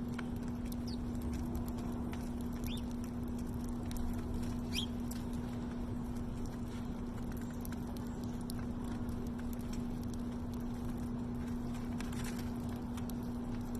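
Small birds feeding, with light pecking taps and a few short high chirps in the first five seconds. A steady low hum runs underneath.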